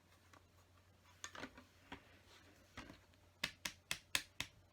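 Plastic LEGO bricks being handled and clicked against each other: a few soft taps, then a quick run of about five sharp clicks near the end.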